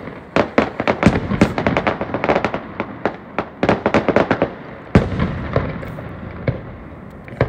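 Aerial fireworks bursting: a rapid string of crackling pops and bangs for the first four seconds or so, one loud boom about five seconds in, then scattered pops.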